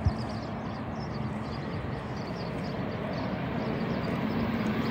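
A train approaching from the distance along the main line, a steady rumble that slowly grows louder, with small birds chirping in the background.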